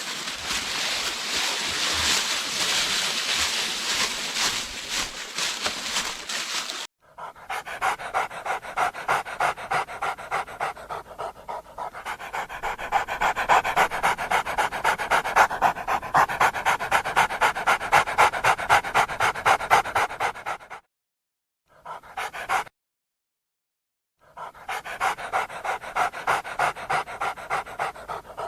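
Dog panting fast and rhythmically, about three breaths a second, in several edited clips broken by short silent gaps near the end.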